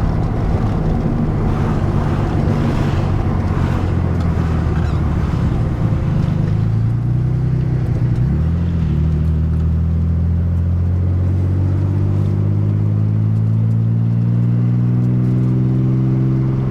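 Nissan 300ZX Z32's twin-turbo V6 engine running as the car is driven, heard from inside the cabin. Its pitch holds fairly steady, dips briefly about halfway through, then rises slowly as the car gathers speed.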